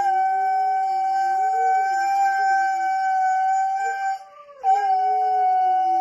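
A dog howling, its voice wavering up and down, along with a steady high held tone that breaks off briefly about four seconds in and then resumes.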